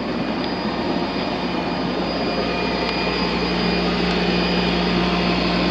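Steady whir of running outdoor equipment, with a low hum that grows a little stronger about halfway through.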